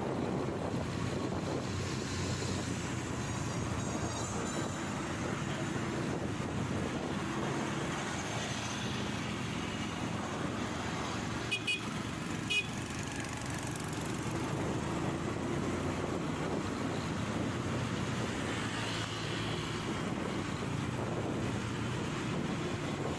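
Motorcycle running steadily in city traffic, with road noise throughout. Two short high beeps come about a second apart near the middle.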